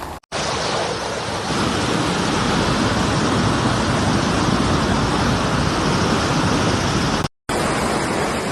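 Loud, steady roar of rushing floodwater, a torrent pouring through a street or ravine. It drops out briefly twice, just after the start and about seven seconds in.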